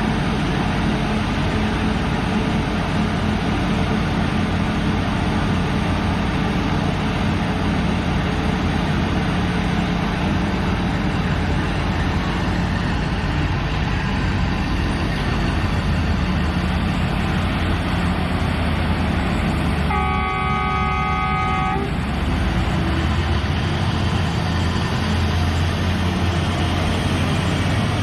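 Liebherr excavator's diesel engine running steadily under work. About twenty seconds in, a horn sounds once for about two seconds.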